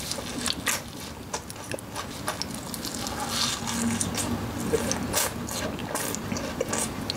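Close-miked wet chewing of fried pork cutlet: squelching, clicking mouth sounds of the meat juice released as it is bitten and chewed.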